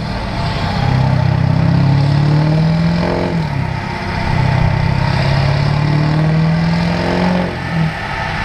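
Turbo-diesel pickup engine pulling hard under load on a chassis dyno. Its pitch climbs, drops at a gear change about three seconds in, climbs again through the next gear, and falls off as it lets off about seven and a half seconds in.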